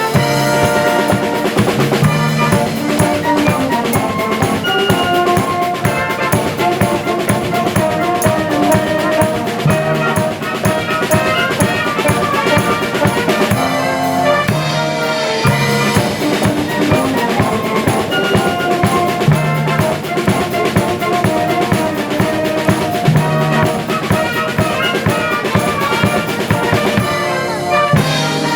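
Live brass band with a drum kit playing an upbeat piece: trumpets and other brass over a steady drum beat.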